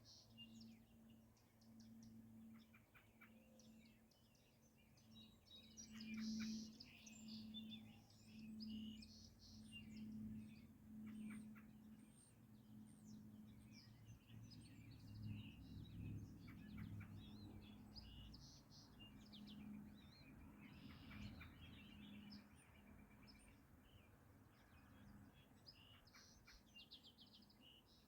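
Faint outdoor birdsong: many birds chirping and trilling on and off. Under it runs a low hum that swells and fades about once a second.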